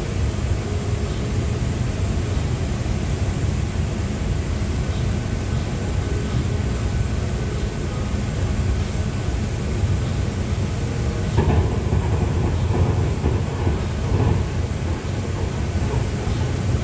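Bangkok MRT Pink Line monorail, an Alstom Innovia Monorail 300 train, running along its guideway with a steady low rumble that grows louder and rougher about eleven seconds in.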